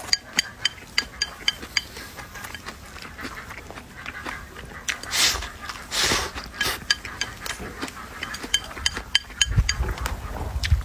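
Chopsticks clicking and clinking against ceramic bowls and plates during a meal, a quick irregular run of light ringing taps, with a few short scraping or rustling sounds in the middle.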